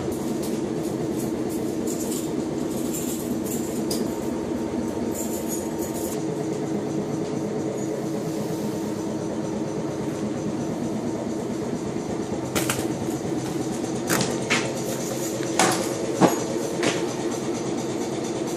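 Steady drone of a standing passenger train's running equipment, heard from inside the carriage, with a few sharp knocks and clicks in the second half.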